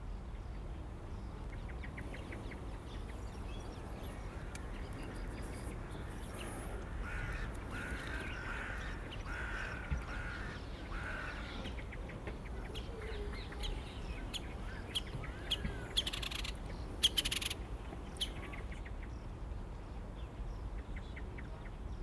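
Wild birds calling: a run of harsh, caw-like calls a third of the way in, then a few short, sharp, noisy bursts, the loudest sounds, in the second half, over a steady low outdoor hum.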